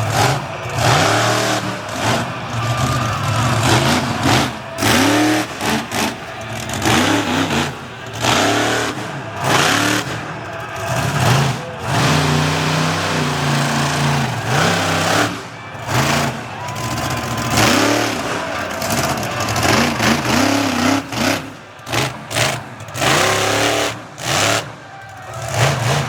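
Monster truck engine revving hard over and over, its pitch climbing and falling, with many sudden short cut-offs as the throttle is chopped.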